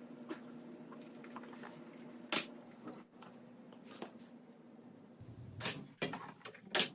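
Scattered light clicks and knocks, with one sharp click about two and a half seconds in and a quick run of them near the end, over a faint steady hum that stops about five seconds in.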